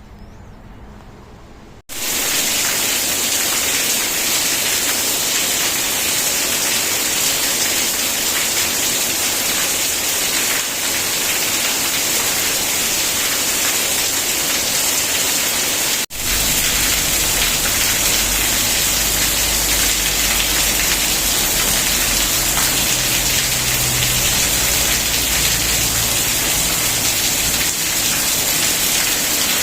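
Heavy rain falling, a loud, even hiss that starts abruptly about two seconds in. It breaks off for an instant midway, then carries on with a deeper rumble underneath.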